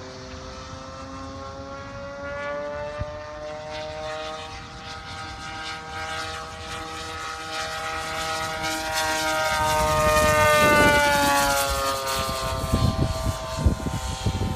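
DLA-64 i2 twin-cylinder gasoline engine of a MiG-3 radio-controlled model plane, swinging a 23x10 propeller, droning as the plane flies past. The drone grows to its loudest about ten seconds in, then drops in pitch and fades a little as the plane passes.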